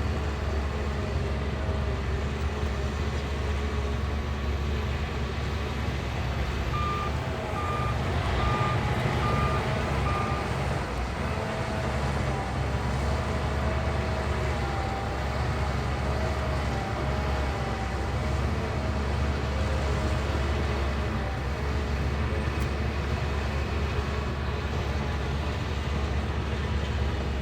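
Diesel engine of a Shantui crawler bulldozer running steadily with a deep hum. About a quarter of the way in, a reversing alarm beeps five times, and a faint wavering whine comes and goes.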